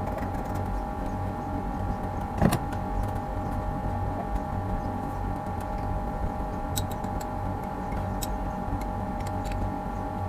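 A steady machine hum with a constant whine, a sharp knock about two and a half seconds in, and a few light clicks later on.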